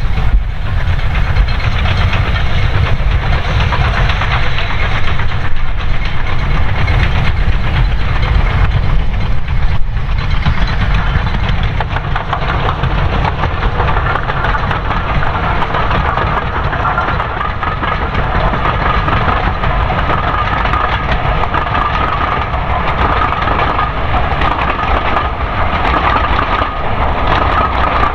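Steam-hauled train passing on a preserved railway: wheels clattering over the rail joints under a continuous rumble and hiss. A steady ringing tone comes in about halfway through and holds.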